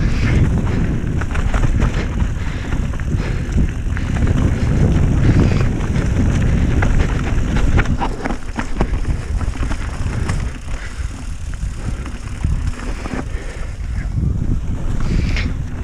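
Mountain bike descending a rough trail: wind buffets the microphone and the tyres rumble steadily, with frequent clicks and rattles from the bike over bumps.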